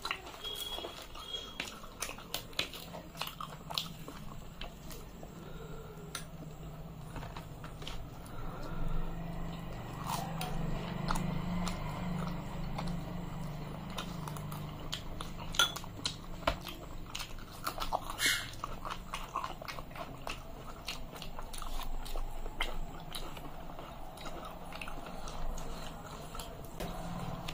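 Close-up chewing of soft fried luchi bread and pea ghugni curry, with many wet mouth clicks and lip smacks, and a few sharper clicks along the way.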